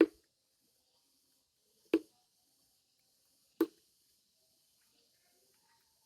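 Three short, sharp clicks, one right at the start and then two more about two seconds and three and a half seconds in, with quiet in between.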